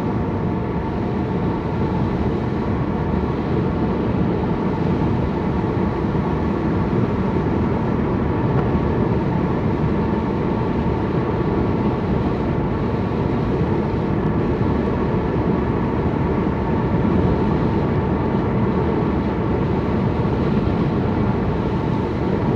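Steady car road noise from inside the cabin: engine and tyre rumble while cruising in fifth gear, with no sudden changes.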